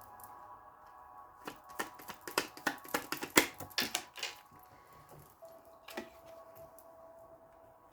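A deck of tarot cards being handled and shuffled: a quick run of sharp card clicks and snaps lasting about three seconds, then one more click a couple of seconds later.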